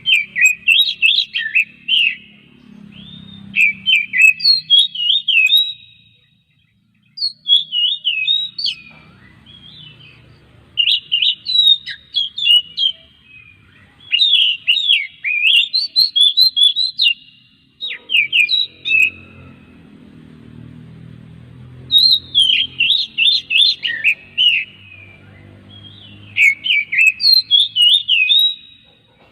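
Oriental magpie-robin (kacer) singing: phrases of quick, sweeping whistled notes with brief pauses between them.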